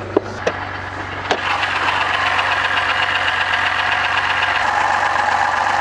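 BMW N52 3.0-litre inline-six engine of a 2011 528i idling with a grinding-like noise from inside the engine, the fault under diagnosis. A few clicks come in the first second and a half, then the engine sound grows louder and stays steady.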